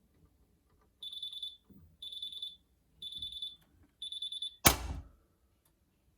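Miele W3985 washing machine's end-of-programme signal: four high beeps, each about half a second long, one a second, telling that the cycle has finished. A single loud clack follows just after the last beep.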